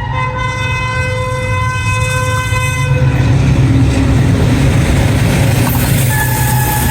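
A train horn sounds a sustained chord over the low rumble of a running train and cuts off about three seconds in. The train's rumble and rattle then grow louder. A short second horn note sounds near the end.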